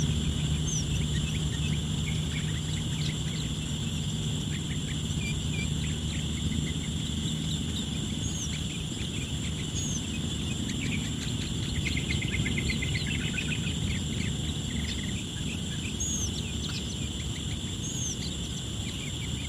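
Sooty-headed bulbuls calling: scattered short chirps and high arched notes, with a quick run of notes about twelve seconds in. A steady high insect drone and a low rumble run underneath.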